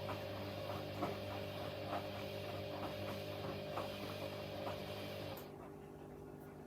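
Washing machine running mid-cycle: a steady motor hum with a soft knock about once a second as the drum turns. About five seconds in, part of the machine noise cuts off, leaving a lower hum.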